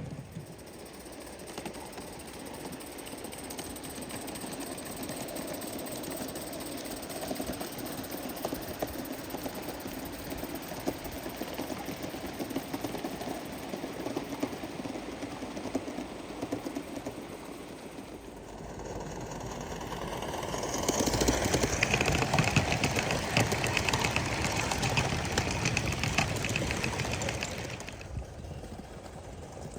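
Gauge 1 live-steam model locomotive running, its rapid exhaust beats steady at first, then growing louder about two-thirds of the way through as it comes close, before fading again.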